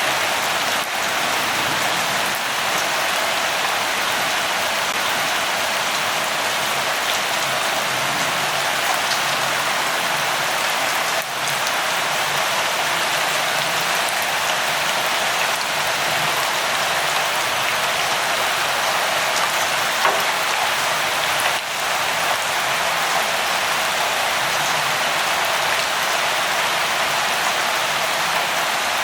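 Steady rain falling, an even patter of drops on surfaces with small individual drop ticks here and there.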